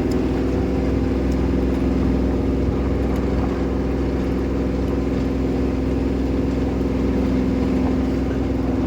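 An engine running steadily at an even speed, with a constant hum and a low rumble underneath.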